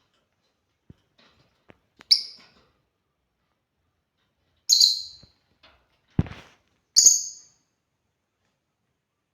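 Lovebirds giving three sharp, high-pitched chirps a couple of seconds apart, with faint clicks and a short low thump between the last two.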